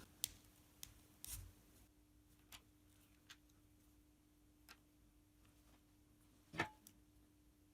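Faint, sparse clicks and taps of small wooden crank pieces and a dowel being handled, about seven in all, the loudest about six and a half seconds in, over a faint steady hum.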